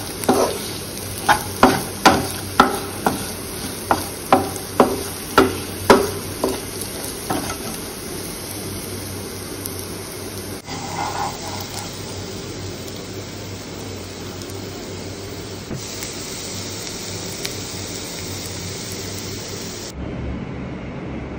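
Potato cubes sizzling as they fry in oil in a non-stick pan, stirred with a spatula that scrapes and knocks against the pan about twice a second for the first several seconds. Then steady sizzling.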